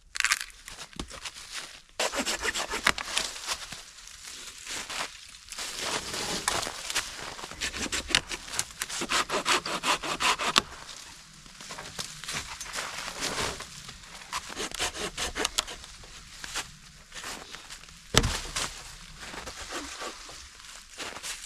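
Hand saw cutting firewood in quick back-and-forth strokes, in runs of a few seconds with short pauses between them. A single sharp knock comes about eighteen seconds in.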